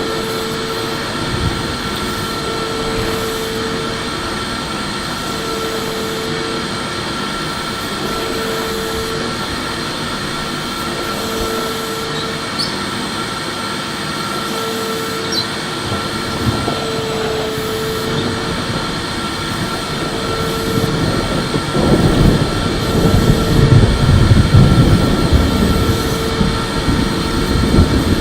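Electric vacuum cleaner running steadily: a constant motor whine over a hiss of rushing air. About twenty seconds in it grows louder, with a rougher low rumble.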